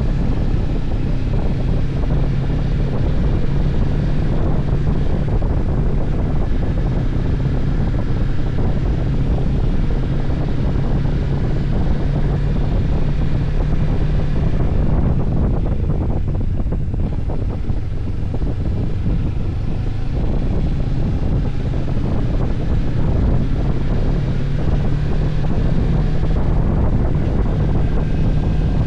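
Motorcycle engine running steadily while riding, with heavy wind noise on the microphone; the engine note drifts slightly and rises a little near the end.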